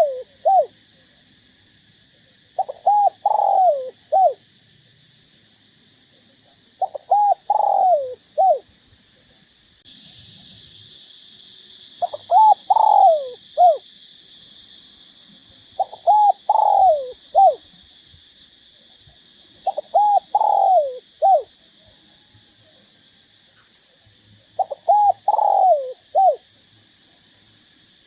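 Spotted dove cooing: six phrases of several short notes each, one phrase every four to five seconds. A steady high hiss runs underneath and grows louder about ten seconds in.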